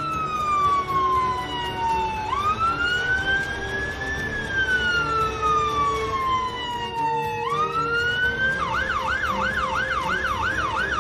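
Emergency vehicle siren sounding a slow wail, its pitch falling and rising over several seconds. Near the end it switches to a fast yelp of about three cycles a second.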